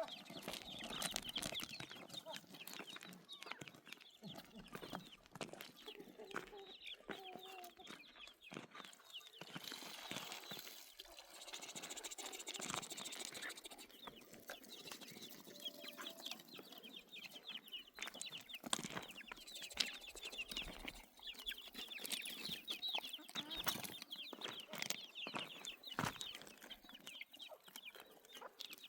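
Birds calling, a busy run of short chirps and clucks.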